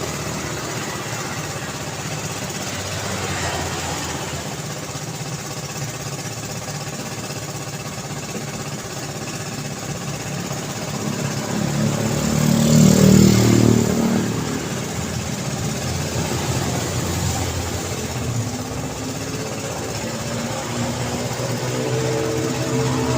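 Continuous road traffic: engines and tyre hiss from passing vehicles. One vehicle passes close about halfway through, the loudest moment, rising and then falling away. Another engine builds up near the end.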